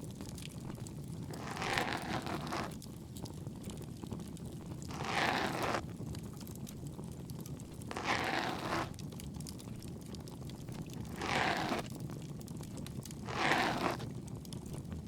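ASMR ear-cleaning sounds: a tool rubbing and scraping close to the ear-side microphone in five slow strokes, about one every three seconds. Under them runs a steady faint crackle of a wood fire.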